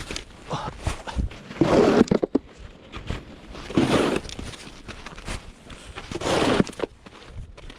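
Snow shovel scraping and pushing snow, three strokes about two and a half seconds apart.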